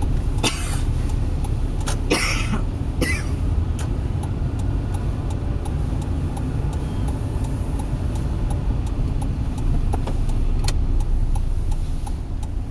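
A car being driven, heard from inside: a steady low rumble of engine and road noise, with a few short noises in the first three seconds.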